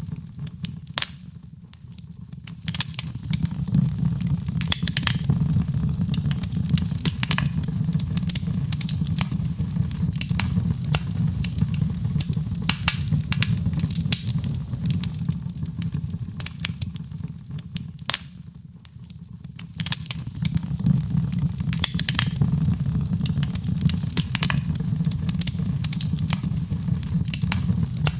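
Wood fire in a fireplace crackling, with frequent sharp pops and snaps over a steady low rumble of flames. The sound sinks briefly twice, near the start and about two-thirds through, then returns.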